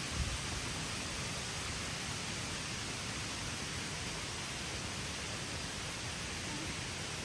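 Steady, even rush of water cascading down the waterfall tiers, with one soft low thump just after the start.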